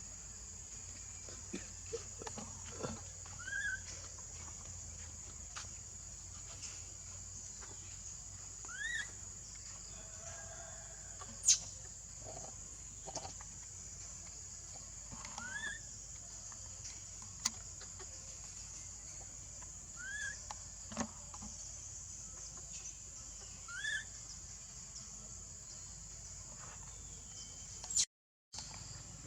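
Steady high insect buzzing, with a short rising call repeated about every five seconds and a few sharp clicks, the loudest about eleven seconds in.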